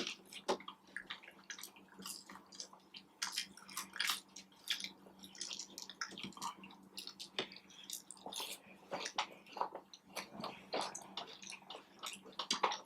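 Close-up chewing of a fried chicken sandwich: a steady run of soft, irregular wet mouth clicks and smacks.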